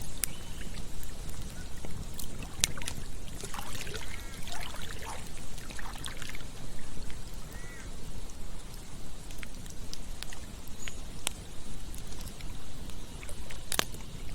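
Campfire crackling with a few sharp pops, the loudest near the end, over the steady rushing of a flowing river.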